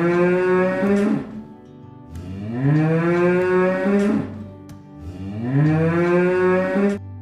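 Cow mooing: three long moos, each rising in pitch and then held, with short pauses between them.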